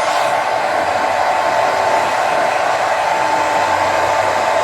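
Handheld hair dryer running steadily: a constant rush of air with a thin, steady whine from its motor.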